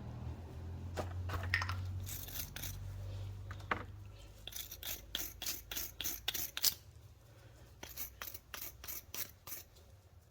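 Hand wire brush scrubbing the threads of a brake caliper bolt in quick back-and-forth strokes, about three a second, pausing briefly near the middle. A low hum fades out in the first few seconds.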